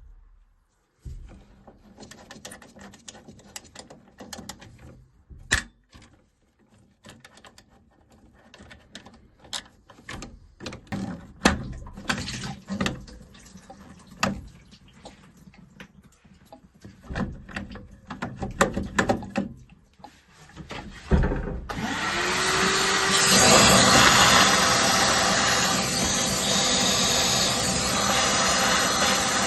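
Scattered clicks and knocks of tools and metal boiler parts being handled, then a small electric motor that spins up and runs steadily and loudly from about two-thirds of the way in, like a power tool or a vacuum.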